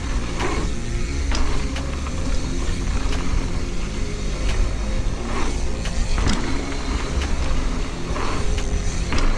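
Mountain bike riding down a dirt trail, heard from a helmet-mounted action camera: a steady rumble of wind on the microphone and tyres rolling over the ground, with scattered clicks and knocks as the bike rattles over bumps.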